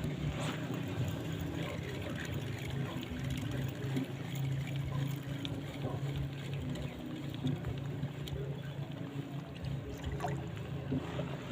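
A boat's motor running steadily, a constant low hum, with water trickling and splashing around it.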